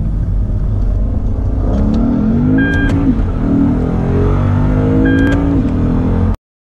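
A car engine under acceleration, rising in pitch twice and dropping back each time, then cutting off suddenly near the end.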